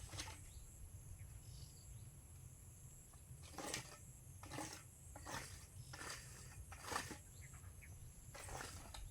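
A steady high insect drone, with a run of short rustling strokes at uneven spacing, roughly one a second over the last half.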